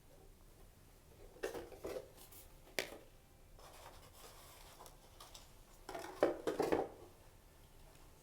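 Soft rustling and rubbing as story pieces are lifted out of a parable box and laid down, with one sharp tap a little before the three-second mark and a longer rustle near the end.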